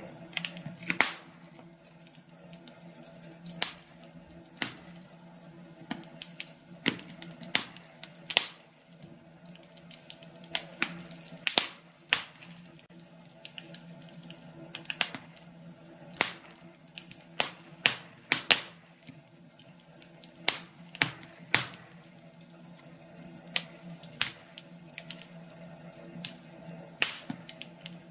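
Wood fire in a fireplace crackling: irregular sharp pops and snaps, several a second at times, over a steady low hiss.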